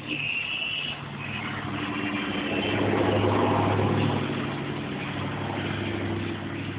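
A motor vehicle's engine running with a steady low hum, growing louder in the middle and easing off again, mixed with rustling as a puppy's face rubs against the phone.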